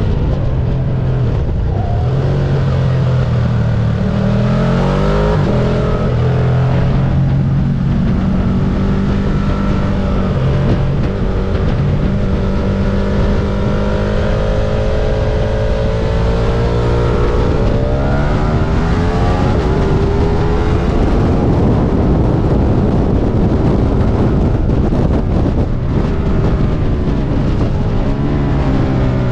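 Stock Ducati sport bike's engine at racetrack speed, heard from a camera mounted on the bike. The engine note climbs and drops as the rider works through the gears, with a long climb under acceleration a little past halfway.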